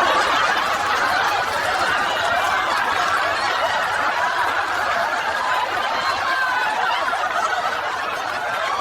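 A crowd laughing: many voices chuckling and laughing together at a steady level, starting suddenly and cutting off abruptly.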